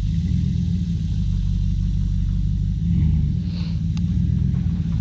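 Two-wheel-drive pickup truck's engine running with a low rumble as it pulls across dirt and grass, surging briefly about three seconds in.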